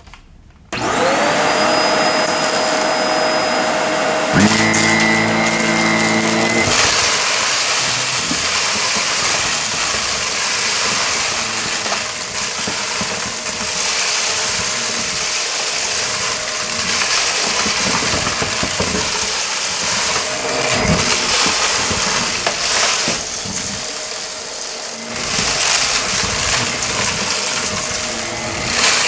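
Shark vacuum cleaner switched on, its motor whining up to speed within the first second, then running loud and steady with a rushing suction noise that swells and dips as it is pushed back and forth over carpet. A lower hum joins briefly about four to seven seconds in.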